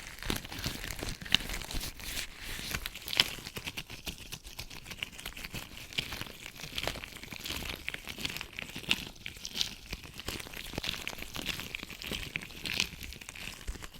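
Latex gloves rubbed and worked close to the microphone, making a dense, continuous crinkling crackle of many small sharp clicks.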